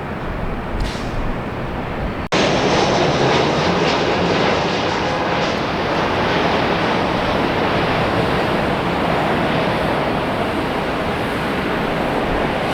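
Jet airliner engine noise, a steady rushing sound without clear tones. A little over two seconds in, it breaks off abruptly and comes back louder.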